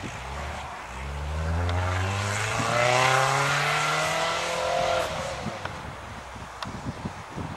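Engine of a stripped-down Opel Omega revving hard as the car accelerates, its pitch rising steadily for about four seconds, loudest around the middle, then the engine note drops away suddenly about five seconds in as the driver lifts off.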